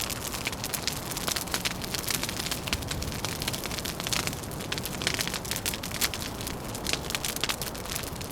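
Wood fire crackling, with many irregular sharp pops and snaps over a steady rushing background.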